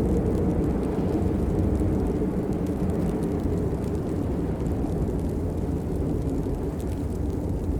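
Steady rain, a dense low rumble with faint scattered ticks of single drops above it.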